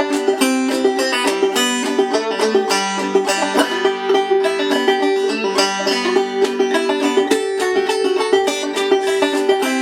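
Five-string banjo, converted from a tenor, played clawhammer style with a Remo Renaissance plastic head tensioned to 90 on a Drum Dial: a steady, even run of plucked notes.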